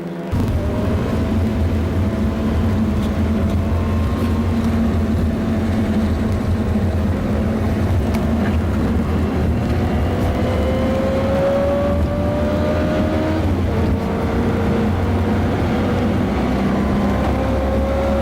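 Mazda MX-5 race car's four-cylinder engine running hard under acceleration. Its pitch climbs, drops at a gear change a little past halfway, then climbs again.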